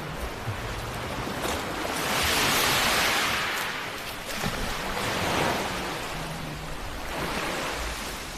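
Sea waves surging and washing onto a shore. The loudest swell comes about two to three seconds in, with smaller ones around five and seven seconds.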